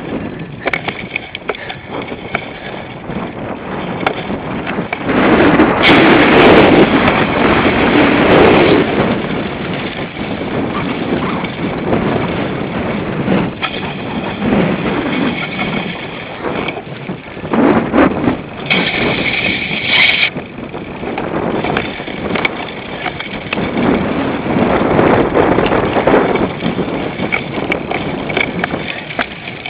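Cyclocross bike ridden over rough ground, with tyre rumble, drivetrain and frame rattle, and wind buffeting the on-bike microphone. The noise is loudest for a few seconds early on, and a brief high squeal comes about two-thirds through.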